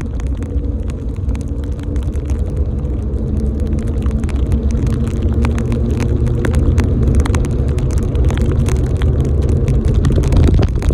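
Wind rumbling on the microphone of a camera riding along on a bicycle in the rain, with many scattered sharp ticks of raindrops striking it.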